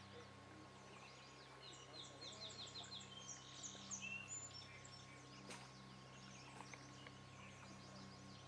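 A songbird singing a quick run of high, evenly repeated chirping notes followed by a few short whistles, about two seconds in, over a faint steady hum.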